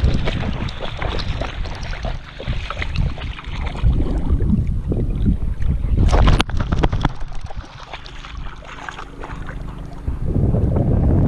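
River water splashing and sloshing in irregular bursts, with a sharp splash about six seconds in. Wind buffets the microphone with a low rumble throughout.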